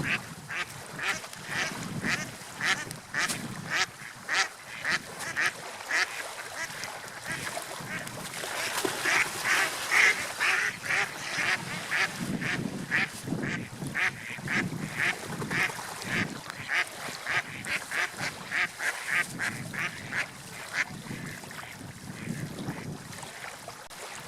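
A bird calling over and over in short, rapid calls, about two to three a second, with an even background hiss.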